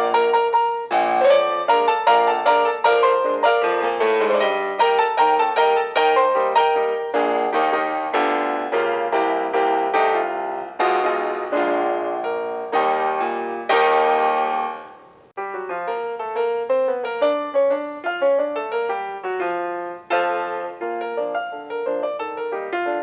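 Background piano music: a busy run of notes that rings out and fades almost to nothing about fifteen seconds in, then a lighter, sparser passage.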